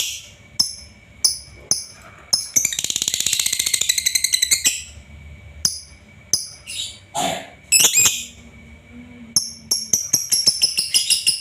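Lovebird singing: sharp, very high chirps in quick runs, with a fast rattling trill lasting about two seconds a few seconds in.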